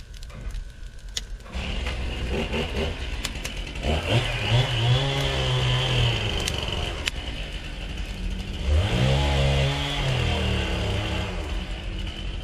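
A small petrol engine running, revving up twice and dropping back each time.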